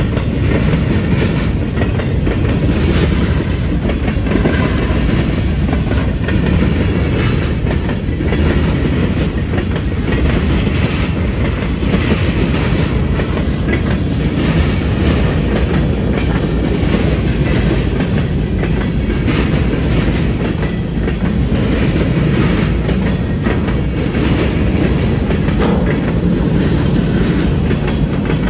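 Train cars rolling steadily past, wheels clicking and clattering over the rail joints.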